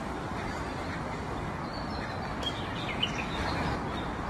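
Small birds chirping a few times, mostly in the second half, over a steady outdoor background noise.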